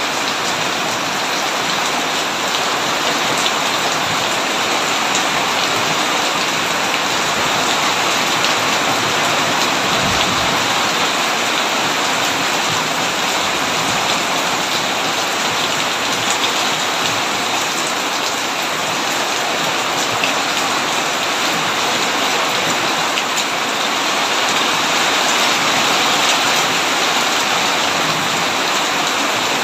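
Heavy rain pattering steadily on a tin roof, with many fine drop ticks.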